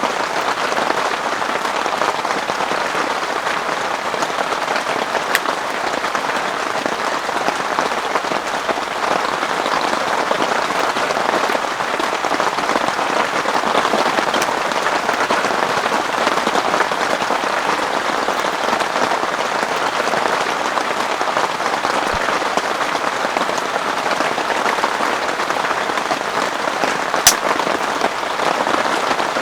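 Heavy rain falling steadily in a dense, even patter, with one sharp click near the end.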